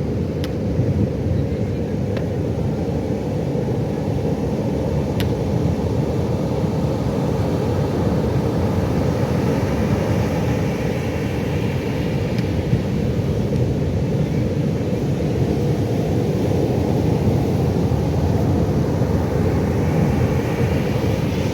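Pacific Ocean surf: a steady, deep rush of breaking waves, with no distinct swells standing out.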